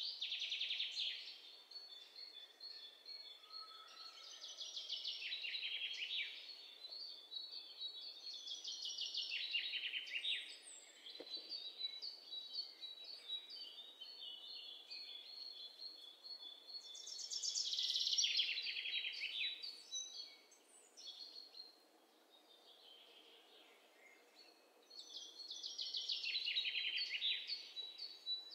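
Small songbird singing: bursts of rapid trilled phrases that fall in pitch, coming every few seconds, with thin high whistled notes strung between them.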